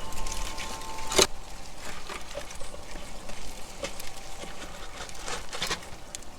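Squirrels feeding at a backyard platform feeder: scattered small clicks and taps, with one sharper knock about a second in. A faint steady hum stops at that knock.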